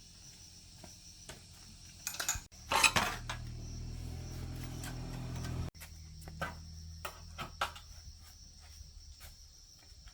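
Light metallic clinks and taps of hand tools and small parts being handled. There is a louder clatter about three seconds in, followed by a low hum that stops abruptly a few seconds later.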